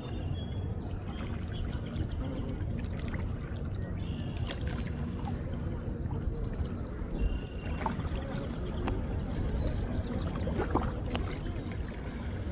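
Shallow water trickling and lapping at the shore, with scattered small splashes and clicks.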